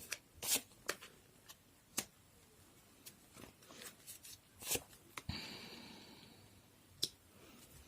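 Faint handling of tarot cards: a few soft taps spread out, and about five seconds in a short sliding rustle that fades away.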